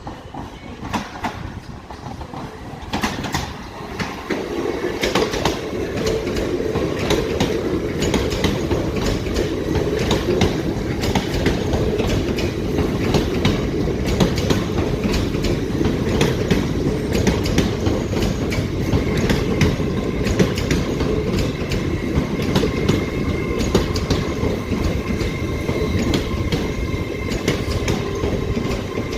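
A train running along the track, its wheels clicking over rail joints, growing louder about four seconds in and staying loud. A thin wheel squeal joins in past the middle.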